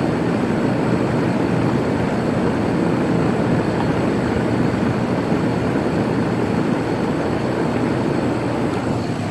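Outdoor condensing unit of a 2008 Rheem 4-ton central air conditioner running, its fan and compressor making a loud, steady whoosh.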